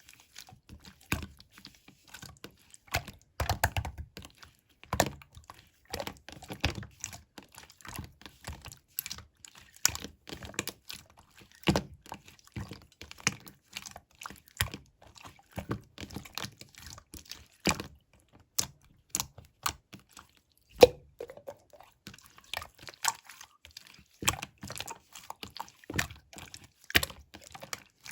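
Slime being squished and pressed by hand, giving irregular crisp clicks and pops, several a second.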